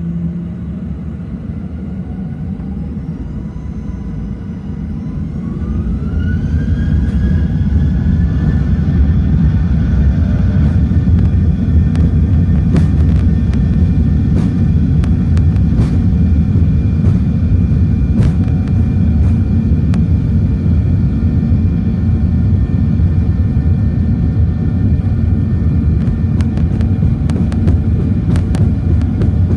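Boeing 737-800 jet engines spooling up for take-off, heard inside the cabin: a whine rising in pitch over the first several seconds as the noise grows, then loud steady engine noise and rumble of the take-off roll. Scattered clicks and rattles run through the rumble.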